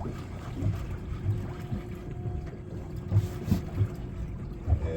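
Sounds aboard a small fishing boat: irregular low thumps over a steady low hum, with some wind on the microphone.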